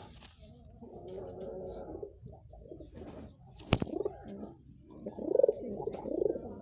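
Domestic pigeons cooing in repeated low phrases, with a single sharp click about halfway through.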